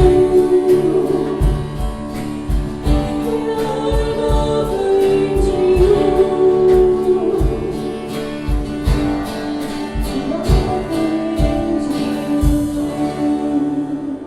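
Contemporary worship song: voices singing over a band with a steady drum beat, fading out near the end.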